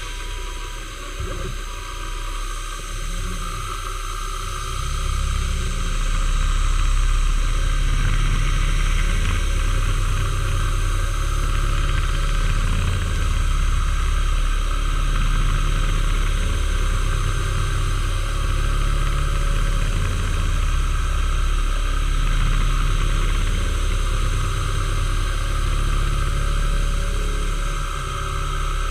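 Machine tool running steadily during metal machining, a low hum that swells and eases every two to three seconds.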